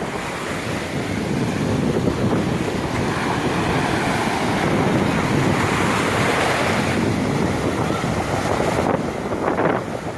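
Sea waves washing onto the shore, a steady surf hiss that swells for a few seconds mid-way, with wind buffeting the microphone.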